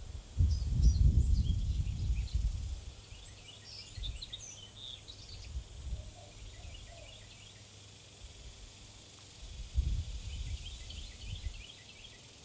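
Small birds chirping in many short, high calls at a backyard bird feeder. Two spells of low rumble come through as well: the louder one from about half a second in for some two seconds, and a shorter one near ten seconds.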